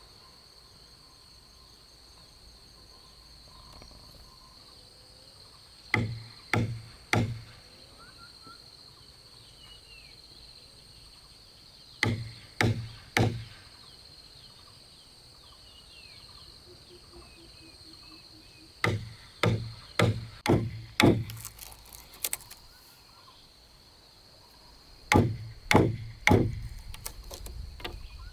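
Sharp blows of a tool striking wood, in groups of about three half a second apart, with a longer run of strikes in the second half, over a steady high-pitched chirring of crickets.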